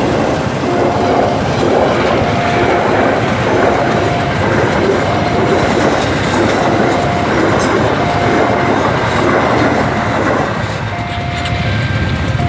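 Passenger train coaches rolling past close by, a steady rumble with wheels clattering over the rail joints. A level-crossing warning signal sounds a short steady tone about every second and a half. The rumble eases about ten seconds in as the last coaches move away.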